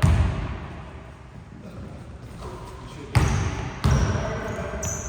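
A basketball bouncing on a gym floor, three echoing bounces: one at the start and two more about three seconds in, under faint voices. A brief high squeak near the end.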